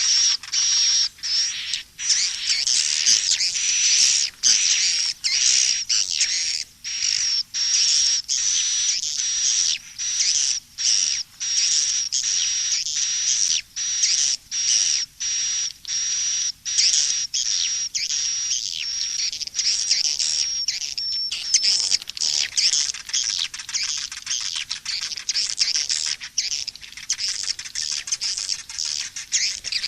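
Swiftlet lure call: a looped mix of swiftlet twittering chirps in quick runs broken by short gaps, over a thin steady high whistle. About twenty seconds in, the whistle drops out and the twittering becomes denser and continuous.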